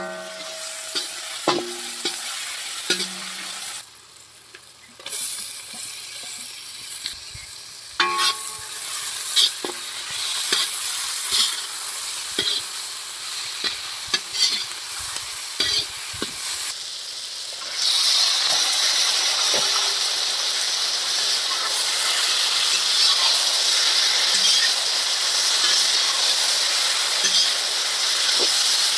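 Food sizzling in hot oil in a cooking pan, stirred with a spoon that clicks and scrapes against the pan. About two-thirds of the way through, the sizzle grows louder and steadier.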